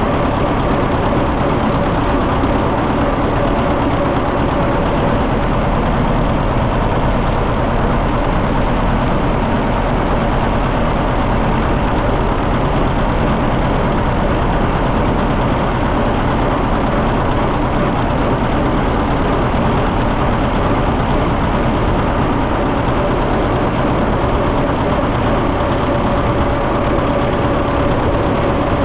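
John Deere 730 tractor's two-cylinder engine running steadily as the tractor drives along.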